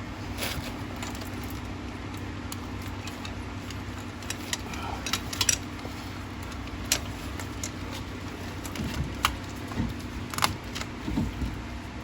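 Scattered light metallic clinks and clicks of hand tools and engine parts being handled, about a dozen, over a steady background hum.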